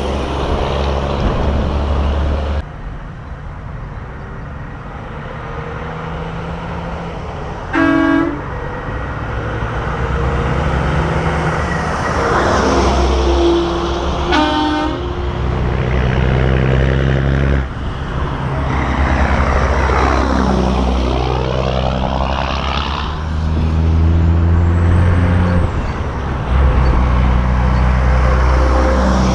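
Big-rig trucks in a convoy rolling past with diesel engines running, one sweeping by with a rising-then-falling pitch. Two short horn blasts sound about eight and fourteen seconds in.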